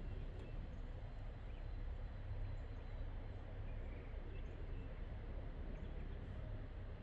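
Dog digging in soft dirt: a steady scratching, rustling noise of paws working loose soil, over a low rumble, with a few faint bird chirps.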